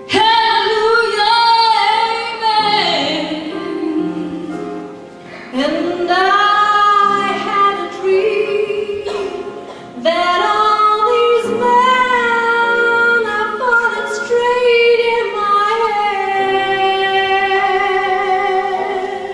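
Female voices singing sustained notes in close harmony, several pitches held at once, in phrases that end in one long held chord that stops at the very end.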